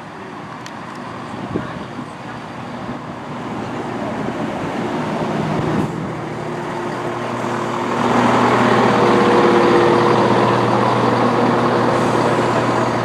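Diesel multiple unit approaching on the line, its engine sound growing steadily louder, with a steady engine note of several tones from about eight seconds in.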